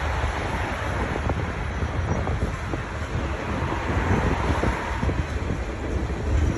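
Freight train rolling past: a steady rumble of the wagons with many small clicks from the wheels on the rails, and some wind on the microphone.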